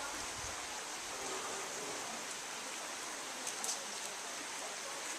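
Steady rushing of river water, an even hiss with no change in level, with a few faint high ticks about three and a half seconds in.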